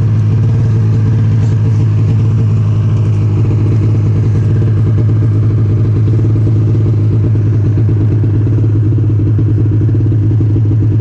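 Snowmobile engine running steadily at a constant pitch.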